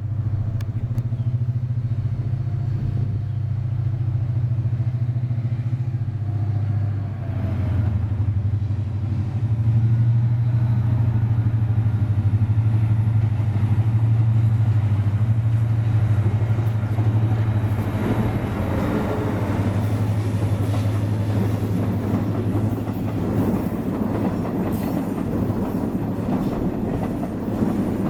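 Diesel-electric locomotive passing with a loud, steady, low engine drone. From about two-thirds of the way in, the rolling clatter of passenger coaches on the rails builds up over it.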